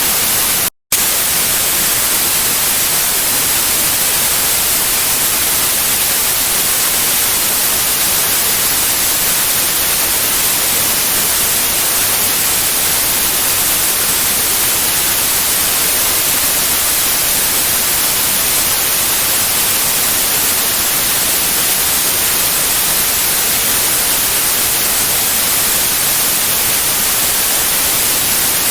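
Steady white noise hiss, the kind played to soothe babies to sleep, cutting out for a split second less than a second in.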